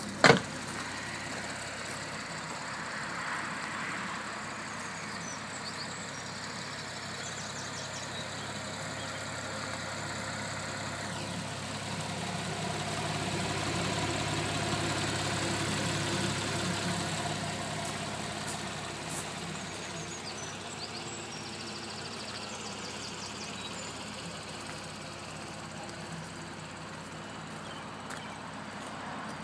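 Porsche 911 Carrera S (997.2) 3.8-litre flat-six idling steadily, louder around the middle where it is heard close to the twin tailpipes. A single sharp thump right at the start, the car door being shut.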